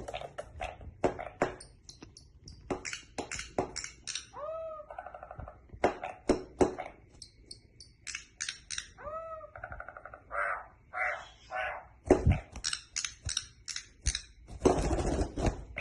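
Campo troupial (corrupião) giving runs of short chattering calls, with an arching whistled note about four seconds in and another about nine seconds in.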